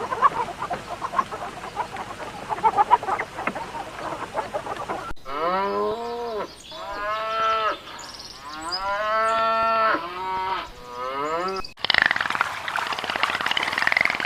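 Cattle mooing, several drawn-out calls in a row that rise and fall in pitch. Before them comes a few seconds of noisy hiss with scattered chirps, and near the end a loud, harsh, noisy animal sound cuts in abruptly.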